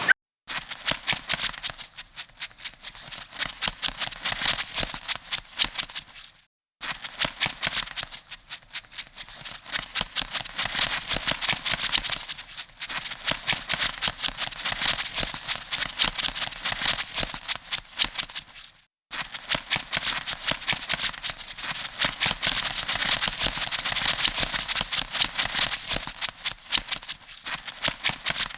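Crab sound effect: a rapid, dense clicking rattle that swells and fades in pulses, broken by two brief silences.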